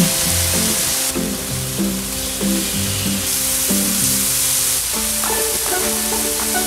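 Chicken breasts sizzling on a nonstick electric griddle, a steady frying hiss, under light background music whose notes change about every half second.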